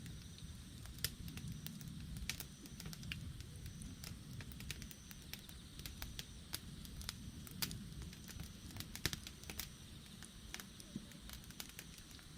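Campfire burning: irregular, sharp crackles and pops of burning wood over a low, steady rumble of the flames.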